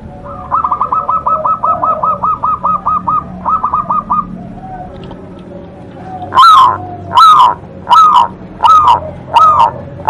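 Zebra dove (perkutut) singing. First comes a rapid run of short, soft cooing notes, about six a second, with a brief second run after a short pause. From a little past the middle come louder, sharper coo notes, about one every 0.7 s.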